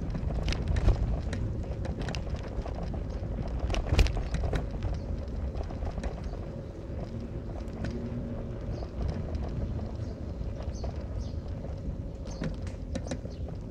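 Car driving: a steady low road and engine rumble with scattered knocks and rattles, the sharpest about four seconds in.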